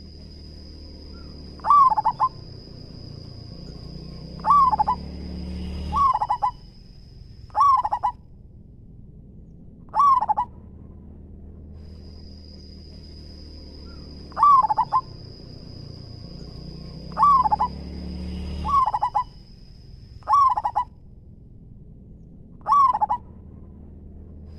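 Zebra dove (perkutut) cooing, about ten short calls a few seconds apart. A steady high whine runs behind the calls and breaks off for a few seconds near the middle.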